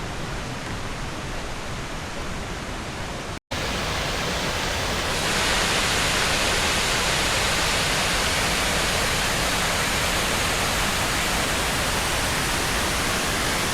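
Cascading waterfall rushing steadily. A brief cut about three and a half seconds in, after which the rush is louder with more hiss.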